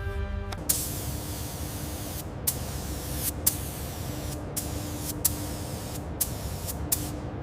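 Spray hissing from about half a second in, cut by several brief breaks, each restarting sharply, with a faint steady hum underneath.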